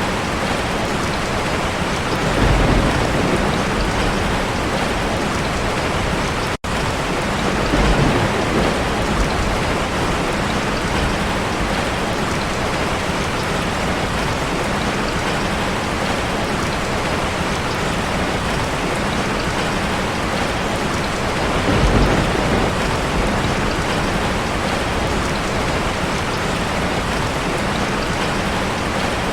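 Heavy rain hitting a car in a steady, dense hiss, with three low rumbles of thunder about two and a half, eight and twenty-two seconds in. The sound cuts out for a split second about six and a half seconds in.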